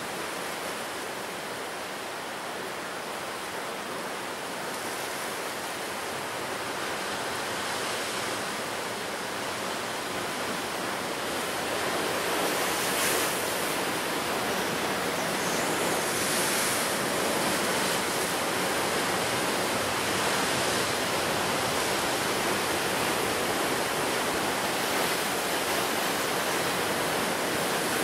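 Ocean surf breaking on the shore: a steady wash of waves. It grows louder about halfway through, with brighter hissing swells as waves break and rush up the beach.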